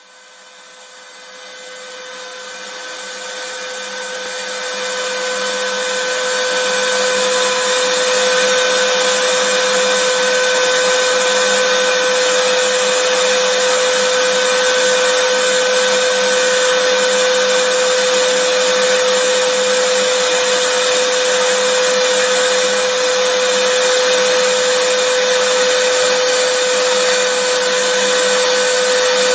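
Vacuum cleaner running steadily: a whirring motor hum over a wide hiss of rushing air, fading in over the first several seconds and then holding even.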